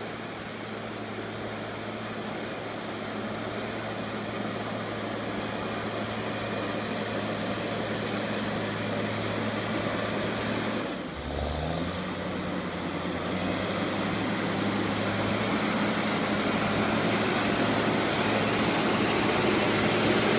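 Engine of a snow-clearing vehicle scooping snow down a driveway, running steadily and growing louder as it comes closer. About halfway through, its note dips briefly and then settles at a different pitch.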